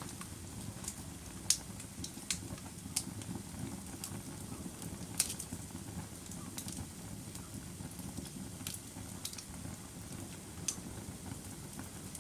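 Wood fire crackling: irregular sharp pops and snaps over a steady low rush of burning, with the loudest pops about a second and a half and about five seconds in.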